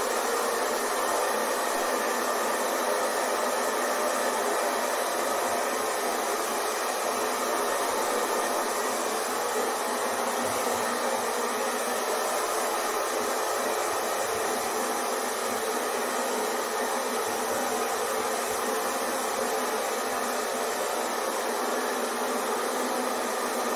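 Hair dryer running steadily: a constant, even blowing noise with a faint motor hum, unchanging throughout.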